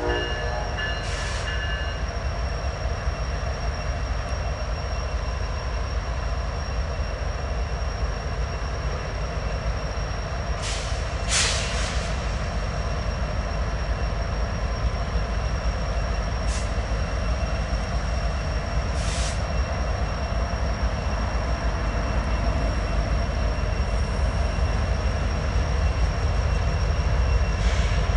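Norfolk Southern freight train's lead diesel locomotives coming on slowly around a curve: a steady heavy low rumble that grows a little louder near the end, with a thin steady high wheel squeal and a few short hisses, the loudest about 11 seconds in.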